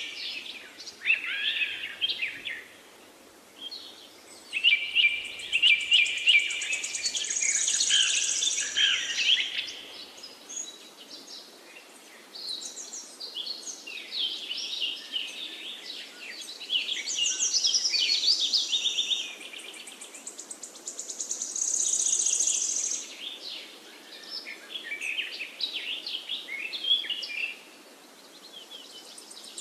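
Several songbirds singing over one another in overlapping phrases of quick chirps and trills, coming in bursts with lulls of a second or two, over a faint steady background hiss.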